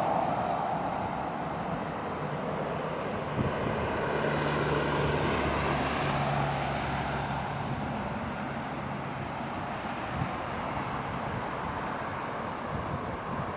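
VL80R AC electric freight locomotive running with its train: a steady drone with a low hum that fades after about nine seconds.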